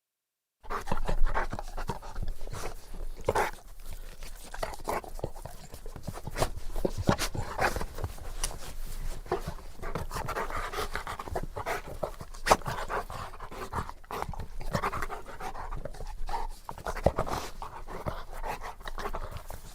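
Saint Bernard panting close up, a rhythmic run of quick breaths in and out that starts about half a second in.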